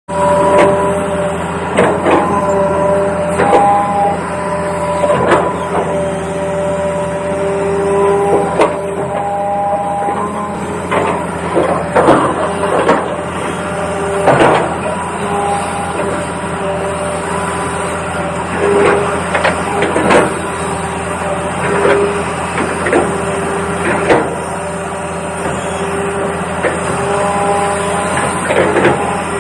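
Toy remote-control excavator's electric motors running with a steady whine, a higher motor tone cutting in and out every few seconds as the arm or tracks are worked. Scattered sharp knocks and clatter run through it.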